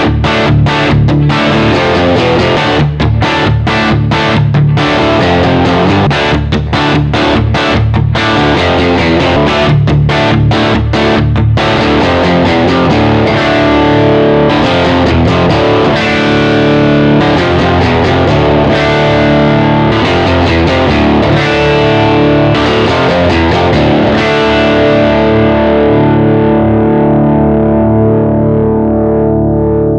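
Overdriven electric guitar from a Gibson Les Paul with PAF-style humbuckers playing chords: for about the first twelve seconds the chords are cut off by short stops, then they are held, and the last chord rings and slowly fades.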